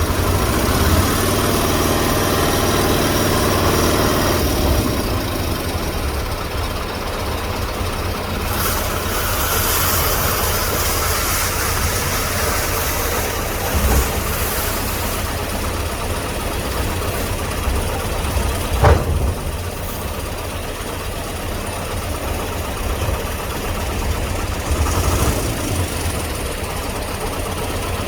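Large engine idling with a steady low rumble. There is a burst of hiss about ten seconds in and one sharp click a little before twenty seconds.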